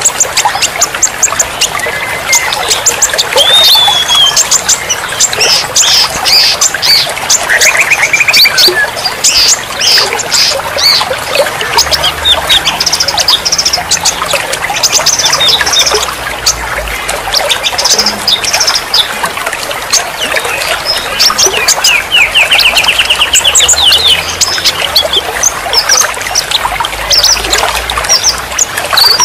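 A dense mix of songbirds chirping, whistling and trilling over one another without pause, over a steady trickle of running water.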